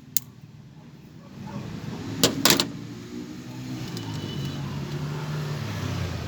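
A click, then two loud sharp clanks a couple of seconds in, followed by a motor vehicle's engine running with a low steady hum that grows louder toward the end.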